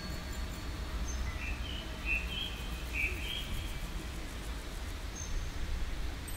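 A few short bird chirps, about one to three seconds in, over a steady low rumble of outdoor background noise.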